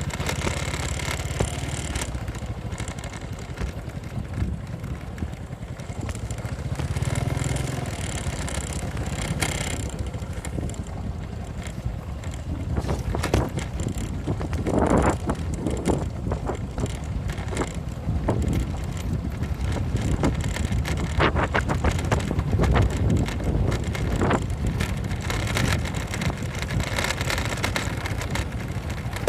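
Motorcycle engine running while riding, with wind noise on the microphone. Irregular knocks and rattles come through, loudest from about the middle on, as the bike goes over a rough road.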